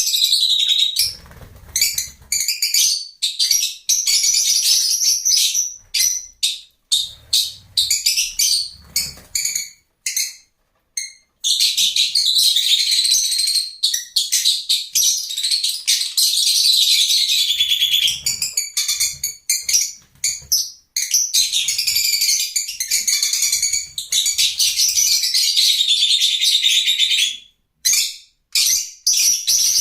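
Lovebirds chattering: dense, shrill, high-pitched chirping that cuts out abruptly a few times.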